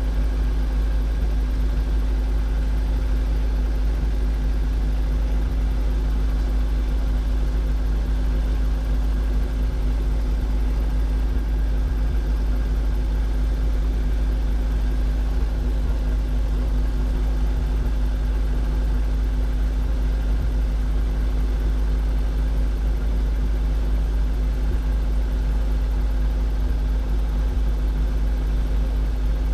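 Robinson R22 helicopter's piston engine and rotors running steadily: a constant low drone with a steady hum over it.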